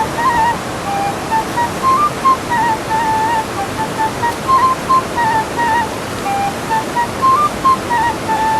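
Background music: a simple melody of short single high notes stepping up and down, over a steady rushing hiss like surf or running water.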